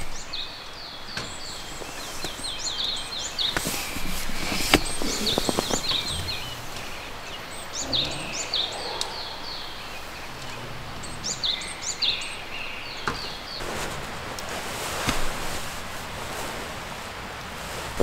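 Small songbirds singing: several phrases of quick, high chirps repeated a few seconds apart over a steady outdoor hiss.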